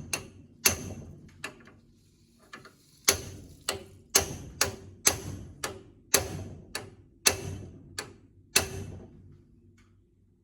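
Hammer striking a rusted, seized steering part on a 1960 Chevrolet Impala, trying to knock it loose: about fifteen sharp metal-on-metal blows that ring briefly, coming roughly one to two a second with a short pause about two seconds in, and stopping about nine seconds in.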